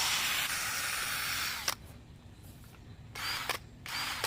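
Water sprayer spraying in a steady hiss that cuts off with a click about a second and a half in, then two short sprays near the end: wetting down for wet sanding a headlight.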